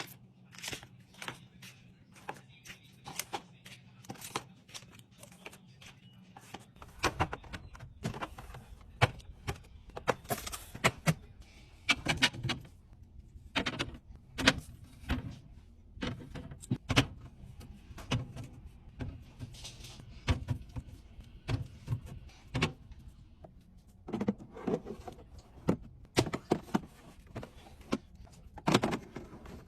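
Repeated clicks and knocks of food containers and packages being handled and set down on refrigerator shelves during a restock, several a second, over a low steady hum from about seven seconds in.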